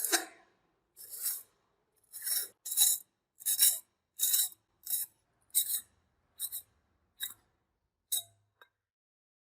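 About a dozen short scraping strokes of a hand tool on the rusty metal of an old paint spray gun, one every half second to a second, growing shorter and fainter until they stop near the end.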